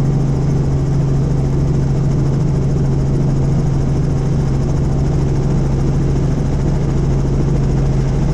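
Helicopter in flight: a steady, loud drone of rotor and turbine with a strong constant low hum.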